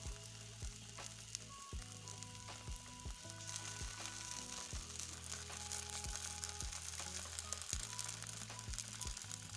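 Rice-batter spirals shallow-frying in oil in a non-stick pan, with a steady, high-pitched sizzle.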